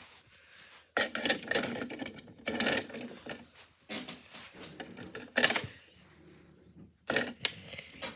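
A large rock clattering and banging inside a tumbling washing machine drum, a burst of knocks and rattles about every second and a half.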